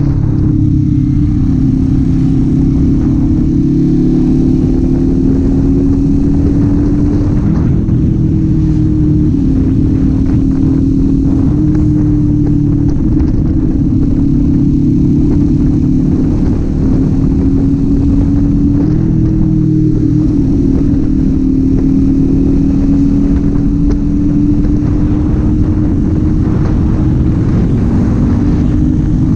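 Kawasaki Z400 parallel-twin engine and exhaust while riding, a steady drone whose pitch drifts gently up and down with the throttle, over a low rush of wind and road noise.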